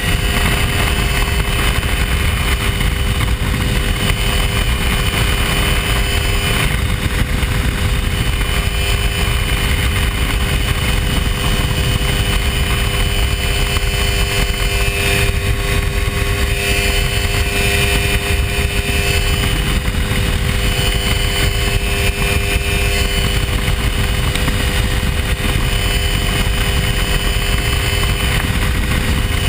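Hy-Tek Hurricane ultralight airplane's engine and propeller running at a steady pitch, with a constant rushing noise over it.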